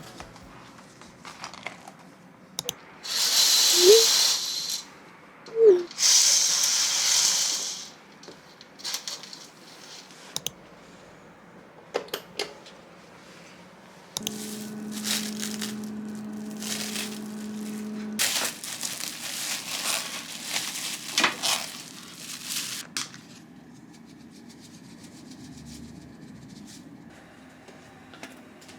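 Handling and household noises: two loud hissing, crinkling bursts a few seconds in, a steady hum lasting about four seconds midway, then scattered rustling and light clicks.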